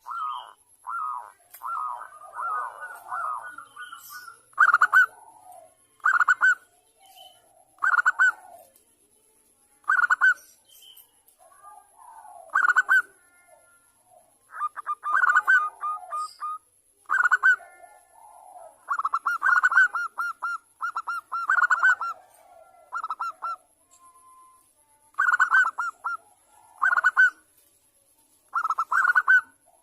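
Zebra dove (perkutut) cooing: short, rapidly pulsed, rolling coo phrases repeated every second or two, some of them longer runs of quick notes.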